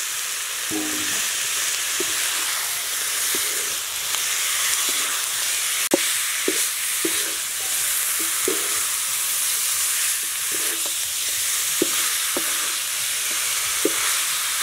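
Snake meat and spice paste sizzling as they fry in a metal wok, with a spatula repeatedly scraping and knocking against the pan as it is stirred.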